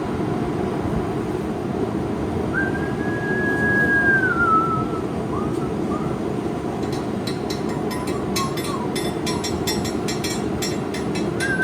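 Steady roar of a blacksmith's forge running. A whistling tone holds, then slides down, about two and a half seconds in and again at the end. A quick run of light high-pitched clicks and scrapes comes over the second half.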